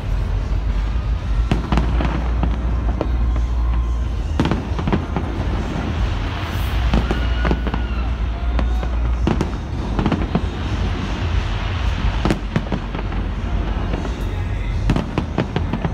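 Large fireworks display: shells bursting in an irregular series of sharp bangs over a constant low rumble.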